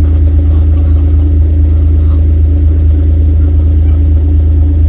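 A running engine's loud, steady low rumble with a constant hum, unchanging throughout.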